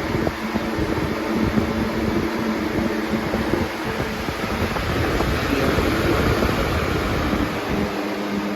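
Air King 9723 box fan running on high: a steady whoosh of moving air with a low hum from the motor, and gusty rumble of the airflow buffeting the microphone that eases off near the end.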